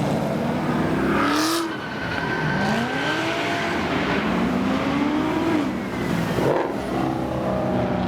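Car engines accelerating hard, revving up in several rising sweeps of pitch. A short, sharp noise cuts in about one and a half seconds in.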